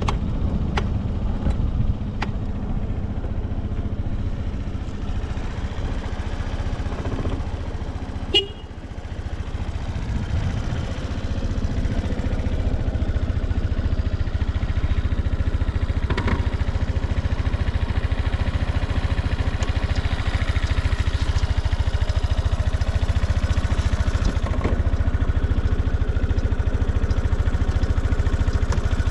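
Suzuki Address V125S scooter's single-cylinder four-stroke engine idling steadily, with no abnormal noise. A single sharp click about eight seconds in, after which the engine settles a little louder.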